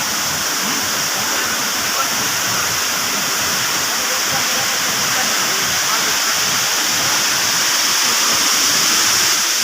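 Waterfall rushing, a loud, steady, even roar of falling water.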